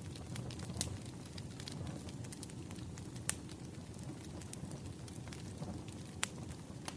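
Wood fire burning: a steady low crackle with fine ticking and three sharp pops, about a second in, a little after the midpoint and near the end.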